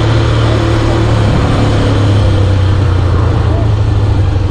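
A vehicle engine running at a steady speed, a constant low hum with no revving, with faint voices over it.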